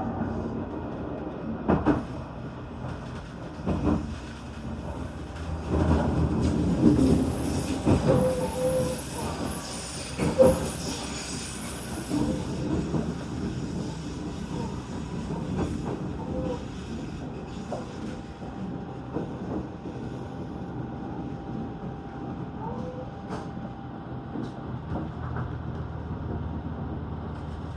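Running noise of a JR Shikoku 2000 series tilting diesel train heard from on board: a steady rumble of wheels on track, with sharp knocks about 2, 4 and 10 seconds in and brief wheel squeal near the middle.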